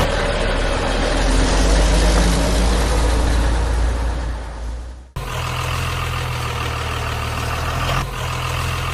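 Heavy vehicle engine running steadily, broken by an abrupt cut about five seconds in to another steady engine hum.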